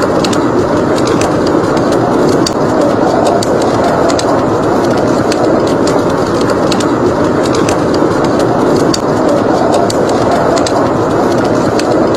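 Steady roar of blizzard wind, with the sharp, irregular crackles and pops of a burning wood fire scattered over it.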